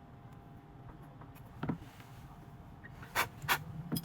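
A few sharp clicks of small hard objects being handled during smartphone repair work: a soft one about a second and a half in, then two close together near the end.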